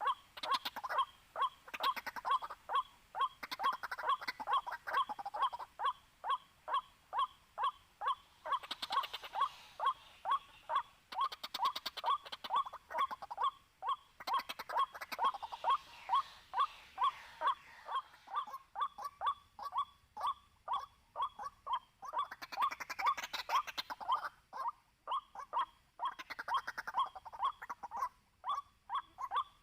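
White-breasted waterhen calls: a long, unbroken run of short, sharp repeated "kwak" notes, about two a second, with a few harsher, noisier stretches mixed in.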